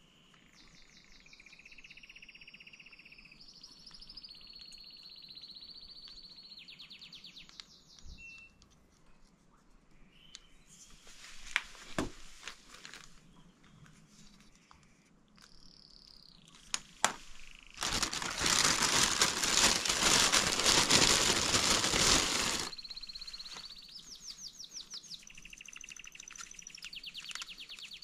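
Birds chirping and trilling in the background, with a few sharp clicks from small parts being handled. Near the middle a loud, steady hiss lasts about five seconds and cuts off sharply.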